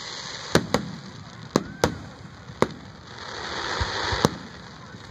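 Aerial fireworks display: about six sharp shell bursts spaced unevenly, with a stretch of crackling from a crackle-effect shell about three to four seconds in.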